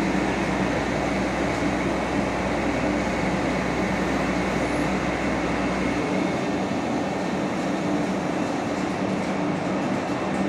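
Fire truck engine running steadily, a continuous mechanical hum and rumble; the deepest part of the rumble drops away about six seconds in.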